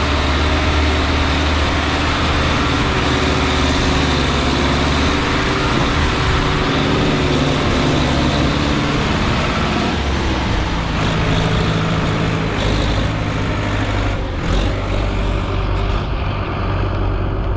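Sonalika 745 DI RX tractor's diesel engine running under load as it pulls a soil-loaded trolley. The engine note shifts about ten seconds in.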